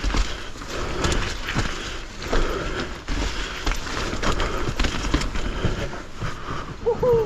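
Mountain bike riding down a wet, rough trail, heard from a rider-mounted GoPro: a steady clatter of tyres, chain and frame with frequent sharp knocks over the terrain, wind rumbling on the microphone, and a short wavering tone near the end.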